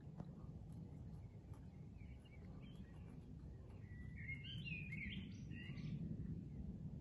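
A small songbird chirping, then a warbling song phrase from about four to six seconds in, over a steady low background rumble.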